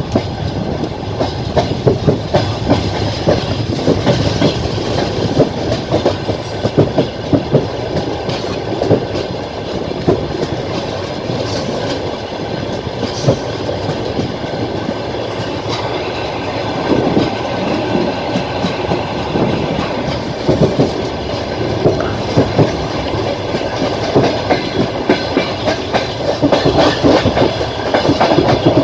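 Moving passenger train carriage, its wheels clickety-clacking over the rail joints in a steady run of knocks over a rolling rumble, heard from the carriage. The knocks thin out in the middle stretch and come thicker and louder near the end.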